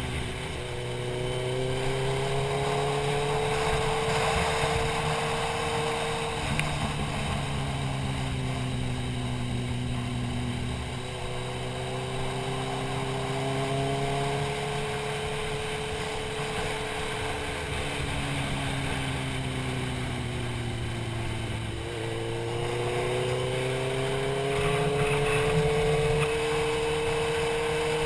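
Motorcycle engine running while riding, heard from a helmet-mounted camera: its pitch climbs and falls back several times with the throttle, over wind rushing across the microphone.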